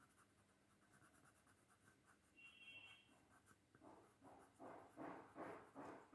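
Very faint strokes of a coloured pencil shading on paper, about two strokes a second in the second half.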